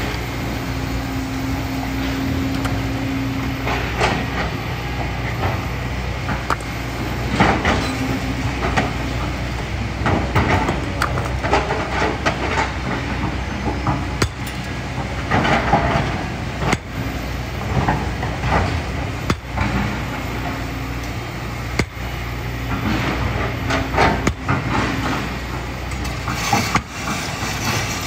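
Kobelco SK200 excavator's diesel engine running steadily with a low drone, while its steel bucket scrapes through sand and gravel and knocks against rocks again and again.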